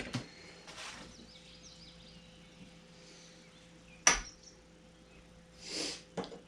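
A few sharp metallic knocks and clinks of tools and parts being handled during U-joint work, the loudest about four seconds in, over a faint steady hum.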